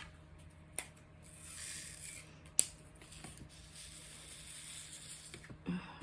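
Small clicks and a soft rattling rustle from craft supplies being handled at a table, with one sharp click about two and a half seconds in.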